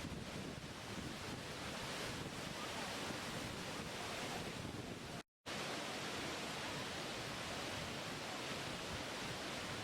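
Steady rushing of falling water, an even roar of white noise. It cuts out completely for a split second about five seconds in, then resumes unchanged.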